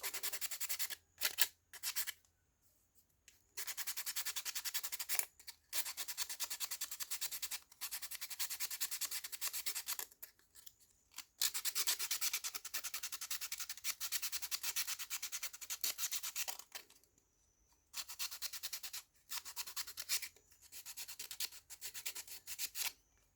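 Sanding the inner surfaces of laser-cut wooden puzzle-box pieces smooth: fast back-and-forth scratchy strokes in several bouts, broken by short pauses.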